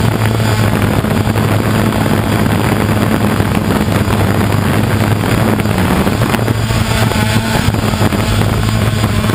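Brushless motors and 6x3 propellers of a Diatone FPV250 quadcopter spinning at low throttle on the ground, heard through its onboard camera as a steady, even hum.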